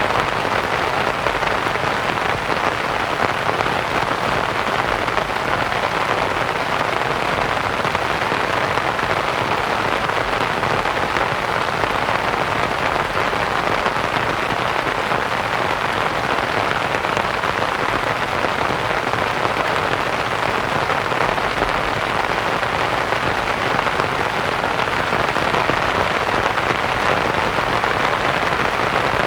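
Steady rain pattering on a canvas tent, mixed with soft white noise: an even, unbroken hiss.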